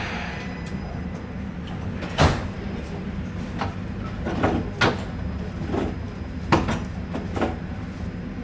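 KVB B80D light-rail car standing with its electrical equipment humming steadily, while a series of sharp knocks and clunks sound from the car, the loudest a little over two seconds in, near the middle and about two thirds through.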